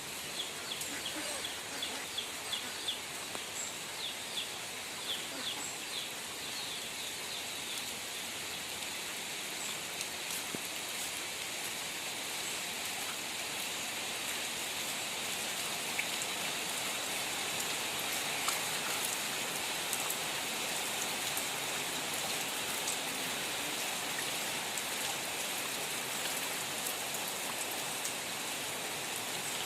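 Steady rain falling, an even hiss of rain on surfaces that grows slightly heavier after the first several seconds. Short, quick bird chirps sound over it in the first several seconds.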